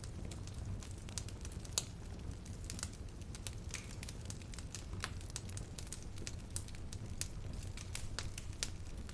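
Wood fire crackling in a fireplace: irregular sharp pops and snaps over a steady low rumble of the flames, one louder pop about two seconds in.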